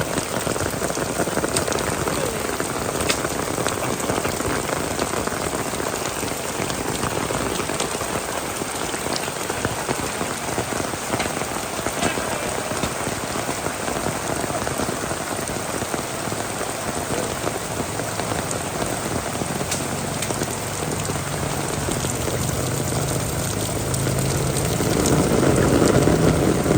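Heavy rain falling steadily, with scattered drop hits. In the last several seconds a low engine hum comes in and swells to the loudest point near the end.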